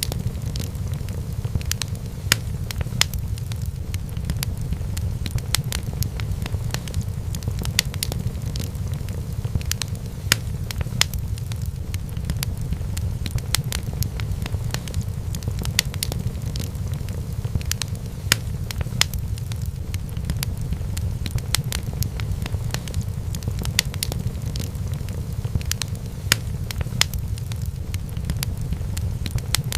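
Wood fire burning in a fireplace, crackling and popping in quick irregular snaps over a steady low rumble.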